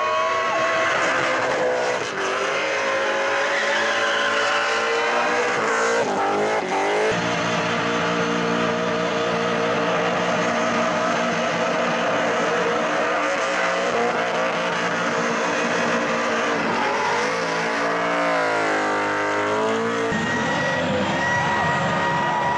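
Engines of supercharged burnout cars, Holden Commodores among them, revving hard and wavering up and down while the rear tyres spin. The engine note changes abruptly about seven seconds in and again about twenty seconds in as one car gives way to another.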